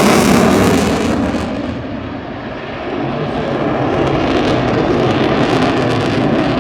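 Military fast jet flying a display pass, its engine noise a loud roar that eases off about two seconds in and then builds again.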